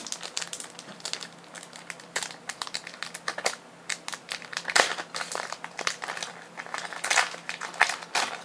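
Plastic wrapper of a Pokémon card booster pack crinkling and crackling in the hands as the pack is opened, a dense run of irregular sharp crackles.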